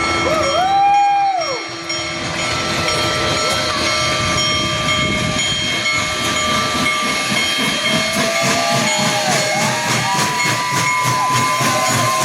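Union Pacific Big Boy 4014 steam locomotive passing: one short whistle blast about a second in, then steam hissing over the rumble and clank of the train. A run of wavering, rising-and-falling tones builds in the second half.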